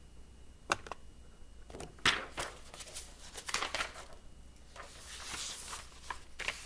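Pages of a picture book being handled and turned: scattered paper flicks and rustling, busiest a couple of seconds in, with a longer rustle about five seconds in.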